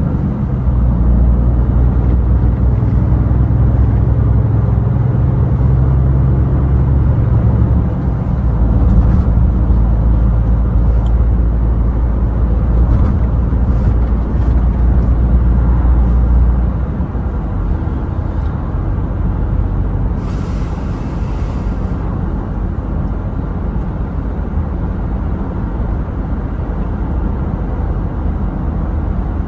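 Scania truck's engine running with a steady low drone while driving; about seventeen seconds in its deep note drops away and the sound gets quieter, as when easing off the throttle. A short hiss lasts a second or two about twenty seconds in.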